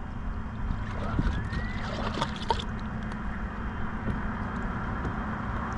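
Steady low rumble of wind and water around a small fishing boat, with a few light clicks and knocks near the middle.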